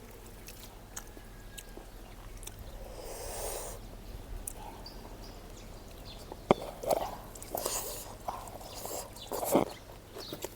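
A person eating close to the microphone: chewing and mouth sounds in short bursts, busier in the second half, with a sharp click about six and a half seconds in.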